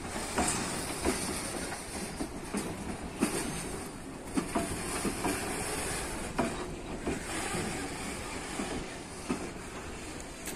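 Loaded freight wagons rolling past at low speed, steel wheels knocking irregularly over the rail joints in a clickety-clack over a steady rumble, with a high hiss underneath. The last wagon of the train goes by near the end.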